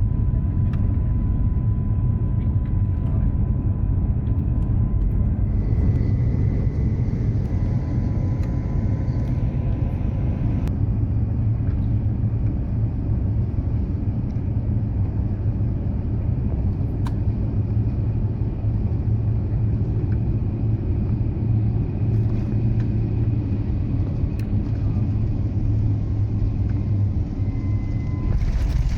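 Steady low rumble of an Airbus A350-900 heard inside the passenger cabin, engines and airflow noise during the descent to land.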